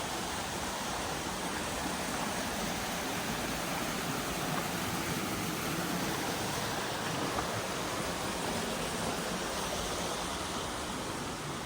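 Steady rush of flowing water from a fast burn or waterfall.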